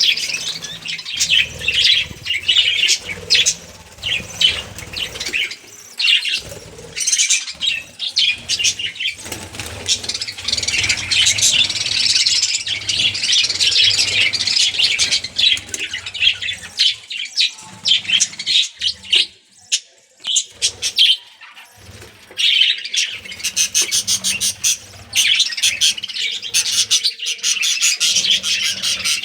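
A flock of budgerigars chattering and chirping continuously, a dense mix of quick warbles and squeaky calls, easing off for a moment about two-thirds of the way through.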